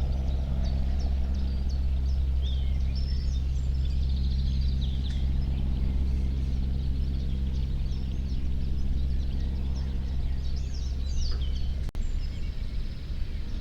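Small birds chirping repeatedly over a steady low rumble with a faint hum, with a brief dropout about twelve seconds in.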